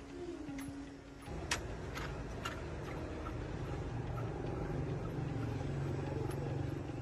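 A machine starts up about a second in, with a few sharp clicks just after, then runs with a steady low hum.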